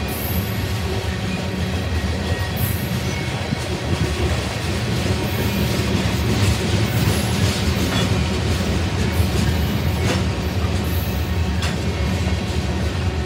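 Loaded covered hopper cars of a freight grain train rolling past: a steady low rumble of steel wheels on the rail, with scattered clicks and a few brief high-pitched sounds from the wheels.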